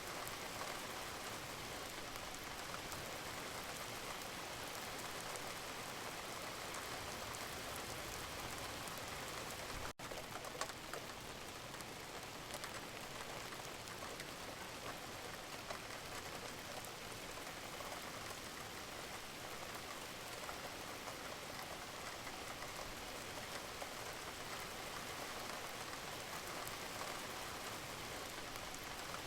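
Steady rain falling, an even hiss with fine drop ticks through it, broken by a momentary gap about ten seconds in.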